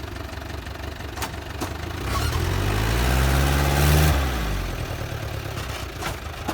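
Heavy-equipment diesel engine idling, then revving up from about two seconds in to a peak near four seconds, with a brief hiss at the peak, and easing back down.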